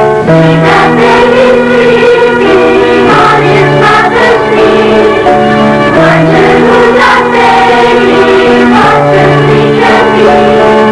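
School choir singing a Christmas song in sustained, changing chords, with instrumental accompaniment.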